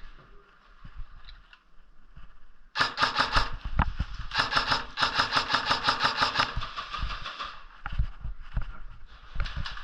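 Airsoft electric gun firing on full auto: a short burst of rapid clicking shots, then a longer burst of about two seconds.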